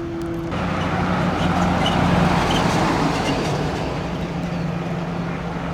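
Fire engine running steadily, with a rushing noise that comes in about half a second in and swells, loudest around two seconds in.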